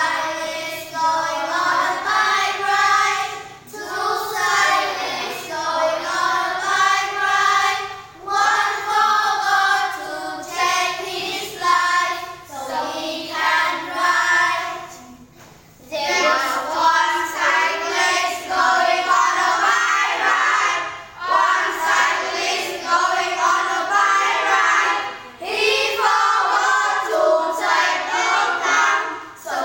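A child singing, in phrases of a few seconds each with short pauses for breath between them.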